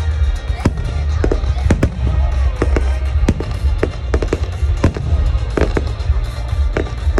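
Fireworks display: about a dozen sharp bangs at irregular intervals over a steady low rumble, with music playing underneath.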